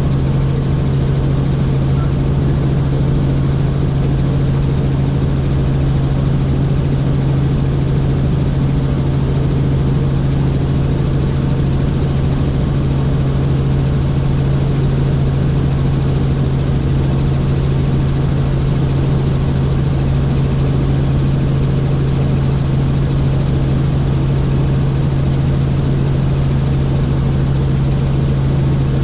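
Helicopter in steady flight: a constant, loud engine and rotor drone with a strong low hum and no change in pitch or level.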